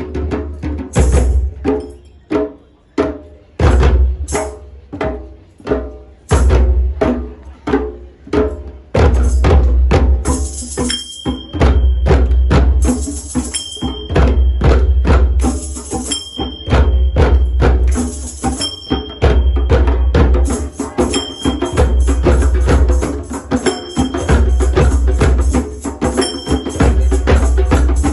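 Drum circle playing a fast, dense rhythm on drums and hand percussion, with heavy low drum thumps every couple of seconds. A high steady tone comes and goes over the drumming from about the middle on.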